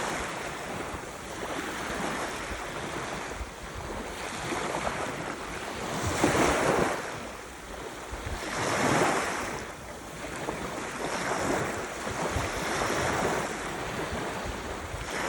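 Ocean surf: waves breaking and washing in, a steady rush that swells and falls every few seconds, with the strongest surges about six and nine seconds in.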